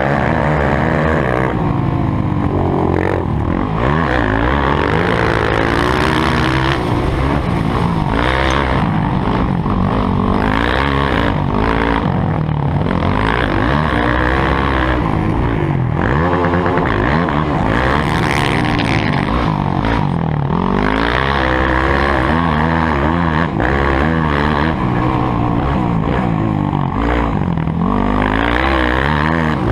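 Several motocross motorcycle engines revving hard and easing off again and again, their pitch rising and falling continuously as the bikes ride the track.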